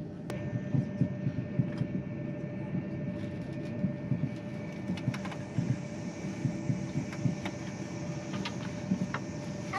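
Running noise inside a Thalys high-speed train's passenger cabin: a steady low rumble with many small irregular knocks, and a steady hum tone over it.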